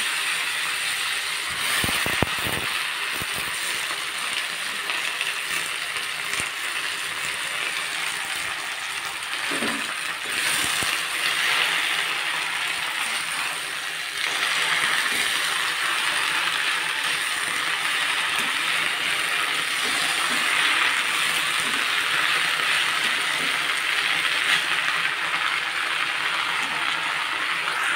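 Fresh jute leaves sizzling in hot mustard oil in a kadai, a steady frying hiss, stirred now and then with a spatula. The sizzle gets a little louder about halfway through.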